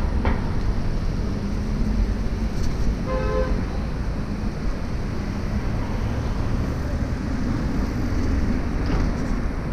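Wind on the microphone and a steady low rumble of traffic during a bike ride, with a short vehicle horn toot about three seconds in.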